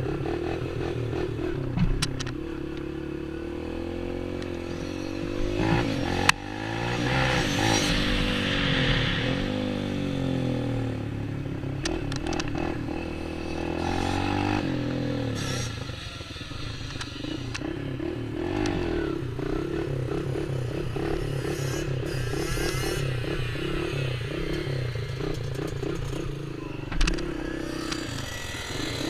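Small off-road engines being ridden, revving up and dropping back again and again as the throttle opens and closes. A sharp click about six seconds in, and short knocks near the start and near the end.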